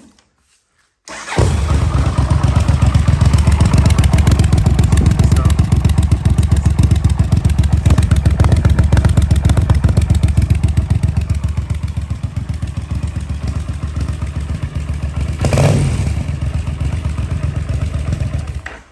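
Yamaha TDM 850 parallel-twin engine starting about a second in, then idling through a single carbon aftermarket muffler with its decibel-killer baffle fitted. There is a brief rev about fifteen seconds in, and the sound cuts off just before the end.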